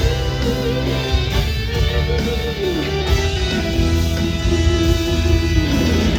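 A band playing an instrumental break of a pop-rock song: a lead guitar melody that slides and bends over bass, drums and strummed guitar.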